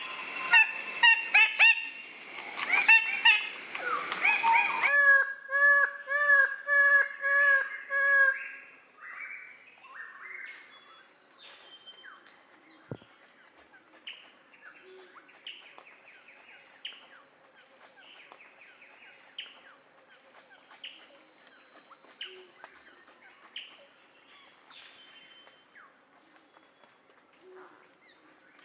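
Birds calling. First a loud, dense jumble of calls, then a run of about six evenly spaced pitched calls. After that come faint short chirps repeating about once a second over a steady high tone.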